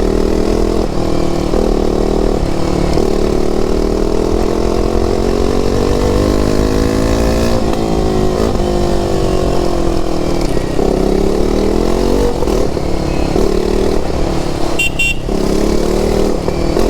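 KTM RC 390's single-cylinder engine under hard riding, revving up and down. Its pitch climbs, steps down at the gear changes and falls when the throttle is rolled off, then rises again.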